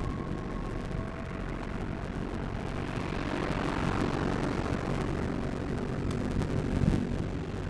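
Steady low engine rumble, with a swell of engine noise that rises and fades about halfway through, as of something passing by.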